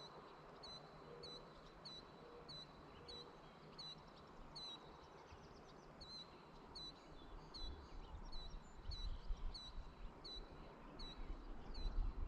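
A bird repeating the same short chirp over and over, a little under two a second, over a faint rural background. A low rumble comes in during the second half.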